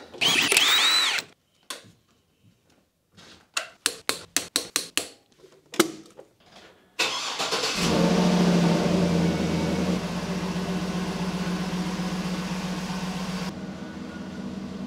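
A short whirring burst and a run of sharp clicks, then about halfway through the Cadillac Escalade ESV's 6.2-litre V8 starts. It is a little stronger for a couple of seconds, then settles into a steady idle.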